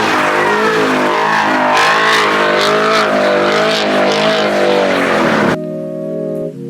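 Car engine revving up and down with tyres squealing, as in spinning in a pit. About five and a half seconds in it cuts off suddenly to a steady, held organ-like music chord.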